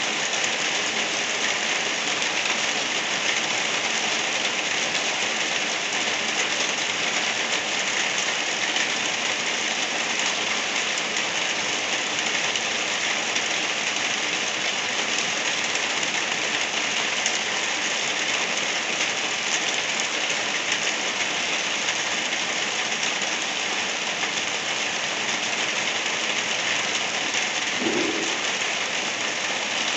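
Steady rain falling, an even hiss of drops with no let-up, with one brief faint low sound near the end.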